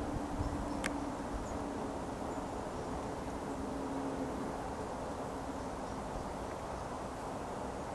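Steady low outdoor rumble with a faint hum, like a distant engine, and a single sharp click about a second in. A few faint, very short high notes, the kind of calls small birds at a feeder make, come and go over it.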